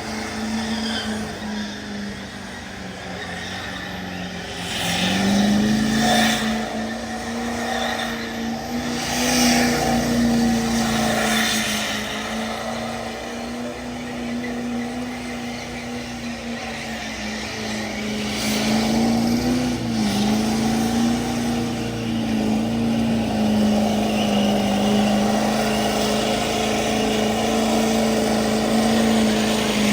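Diesel pickup truck engine held at high revs during a burnout, a steady drone that steps up about five seconds in and dips briefly about twenty seconds in, over a hiss of spinning tyres.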